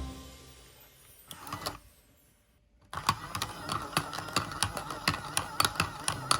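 Daiso toy washing machine switching on about three seconds in: its small motor runs with a steady whine and rapid, regular clicking from the turning mechanism. Background music fades out just before it starts.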